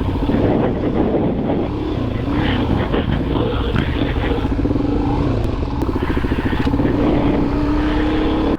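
Dual-sport motorcycle engine running at a steady road speed on a gravel road, with the tyres on loose gravel. The engine note climbs slightly near the end.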